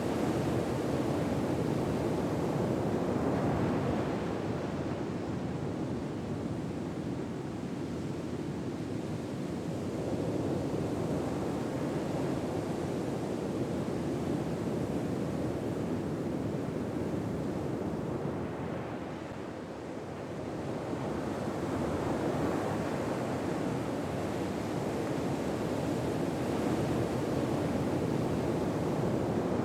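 Ocean surf ambience: a steady wash of waves that swells and ebbs slowly, easing off twice before building again.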